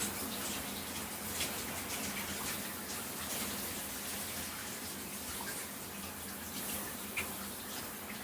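Shower water running onto a person's body: a steady hiss of spray with scattered small splashes and drips.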